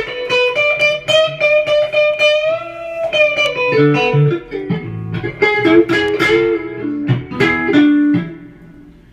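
Guitar playing a blues riff: a held note bent up and back down, then a run of quicker notes, stopping about eight seconds in.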